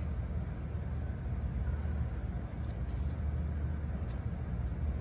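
Steady, high-pitched insect chirring over a low background rumble.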